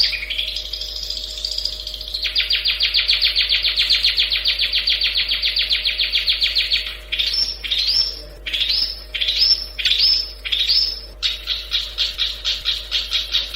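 Long-tailed shrike (cendet) singing loudly. It opens with a warbling whistle, breaks into a fast, even trill about two seconds in, changes to a run of separate sweeping notes about two a second, and returns to the fast trill near the end.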